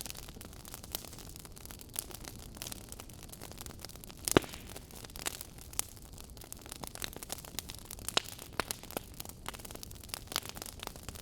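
Wood fire crackling in a fireplace: a steady soft hiss with frequent small snaps, and one loud pop about four seconds in.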